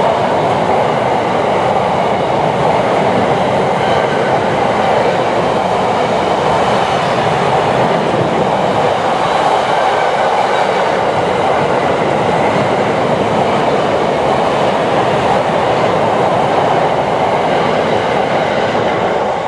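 A train running past on the track: steady, loud wheel-on-rail running noise that holds evenly throughout.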